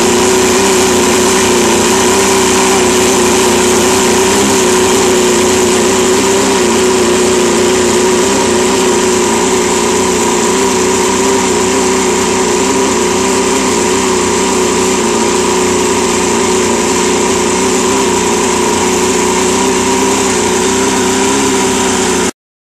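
Freshly rebuilt Mercury Mark 30H two-stroke outboard motor running steadily at a constant speed, then cutting off suddenly near the end.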